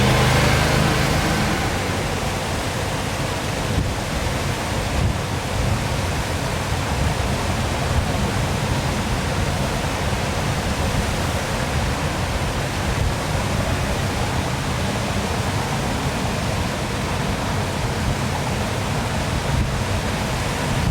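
Waterfall pouring in a steady, continuous rush. A louder sound with a low hum fades away in the first couple of seconds.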